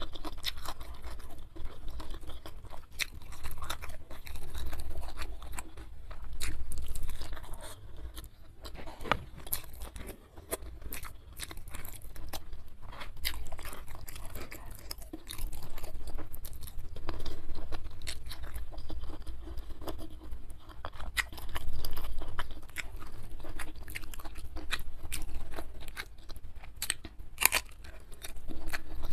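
Close-miked chewing and crunching with many sharp clicks: a person eating rice with chilli sambal and crunchy raw vegetables such as cucumber.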